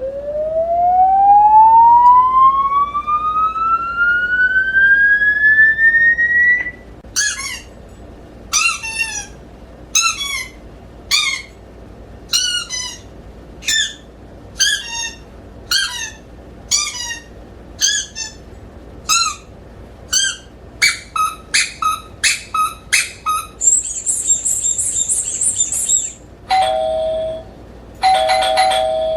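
A sequence of novelty sound effects: a whistle-like tone rising slowly in pitch, then a run of short falling chirps about one a second that speed up, a brief steady high tone, and finally a two-note doorbell chime heard twice.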